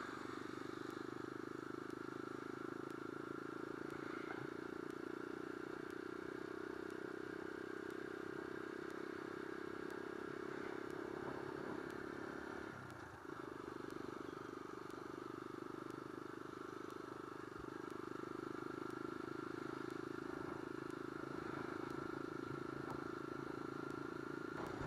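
Small single-cylinder supermoto motorcycle engine running steadily at cruising speed, with road and wind noise. About halfway through the engine note briefly drops and breaks off, as in a throttle-off or gear change, then picks back up at the same steady pitch.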